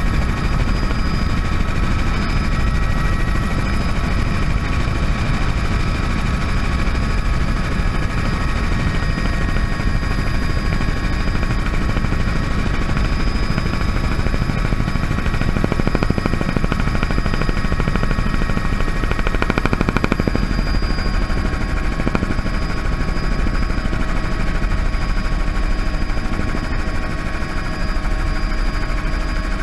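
Bell 206 JetRanger helicopter running: a steady high turbine whine over the rapid, even beat of the rotor blades.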